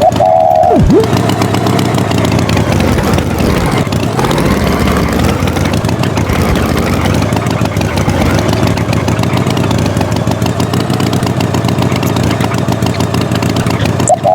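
Motor engine running steadily, its pitch dipping and rising again about four seconds in. A short high-pitched tone sounds at the very start and again at the end.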